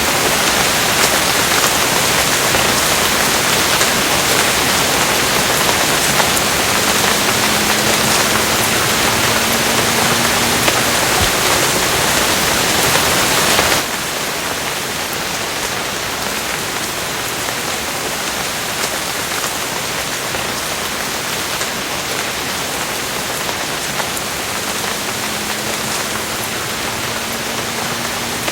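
Steady rain, a dense even hiss. About halfway through it drops abruptly to a somewhat quieter, duller rain.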